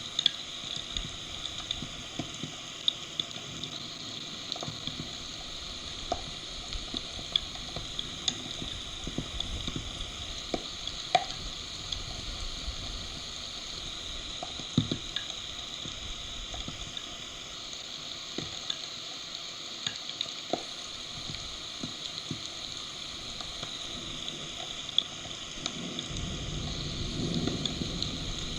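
Heavy rain falling on a stork nest: a steady hiss with scattered sharp drop hits. A low rumble swells up near the end.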